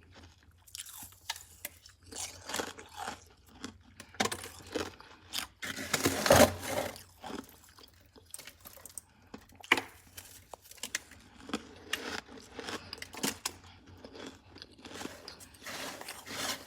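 A person biting and chewing crunchy freezer frost, in irregular crunches. The loudest crunch comes about six seconds in.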